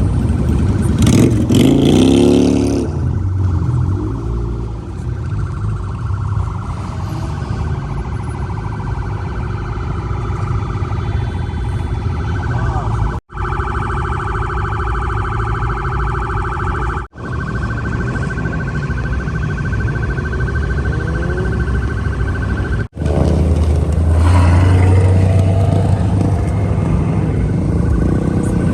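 Car engines rumbling and revving, with a steady siren-like wailing tone held over them. The sound cuts out briefly three times between spliced clips.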